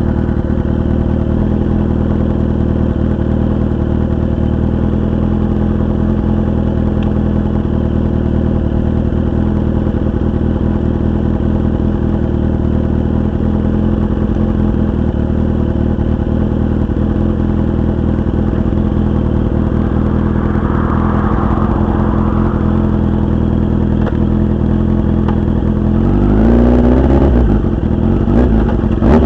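Kawasaki 750 two-stroke triple motorcycle engine idling steadily, then revved up and back down a few times near the end.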